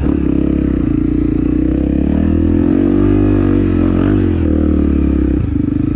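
Off-road motorcycle engine running steadily under throttle. Its pitch rises a little and eases back, then drops off near the end.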